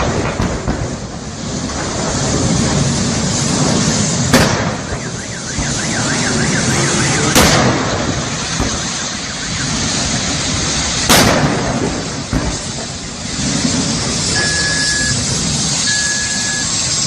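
Bus fire burning with a steady roar, with three sharp explosive bangs a few seconds apart. A few short high beeps come near the end.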